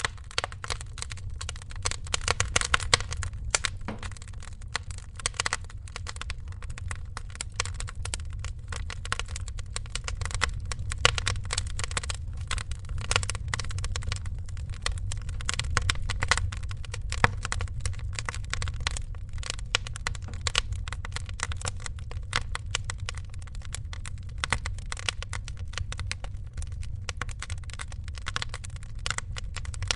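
Wood fire crackling in a fireplace: a dense, steady run of small sharp crackles over a low steady rumble.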